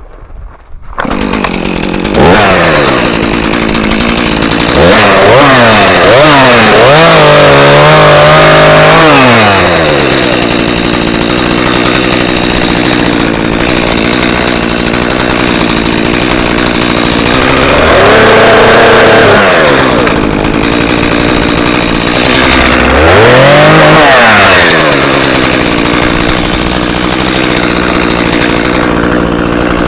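Gas chainsaw starting up about a second in, then cutting a tree that is under tension. Its engine speeds up and drops back several times as the throttle is worked.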